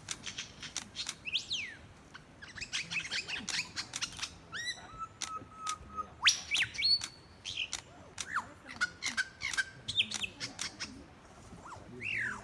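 Superb lyrebird singing a rapid, varied song: sharp clicks, quick downward-sweeping whistles and a couple of held whistled notes, a low one about five seconds in and a high one shortly after.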